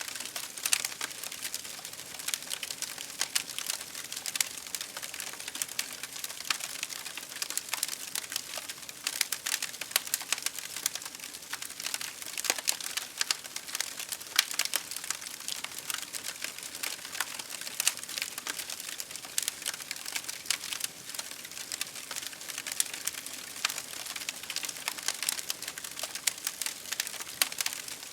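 Campfire crackling: many small sharp pops and snaps, dense and irregular, over a steady hiss.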